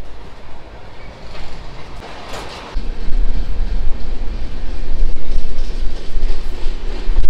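Running noise of a moving passenger train heard from on board. It becomes much louder and deeper about three seconds in.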